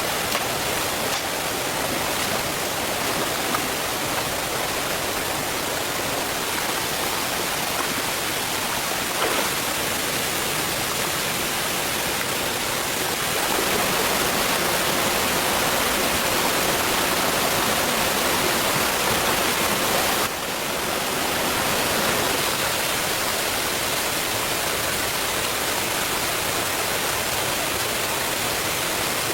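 Steady rushing noise like running water, a little louder for several seconds in the middle and dipping briefly about twenty seconds in.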